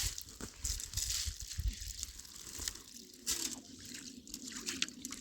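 Water splashing and sloshing in irregular bursts, mixed with crunching and crinkling handling noises, and a faint low steady tone in the second half.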